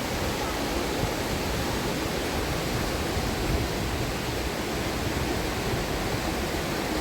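Fast-flowing river water rushing steadily, an even unbroken noise with no distinct events.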